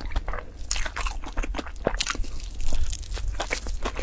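Close-miked eating: crunchy chewing of a bitten mouthful, a dense irregular run of crisp crackles, loudest a little before the end.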